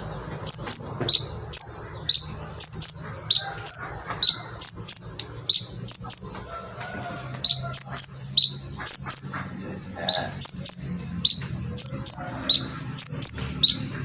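Konin songbird singing a fast, continuous series of short, high, downward-slurred notes, about two to three a second, with only brief pauses.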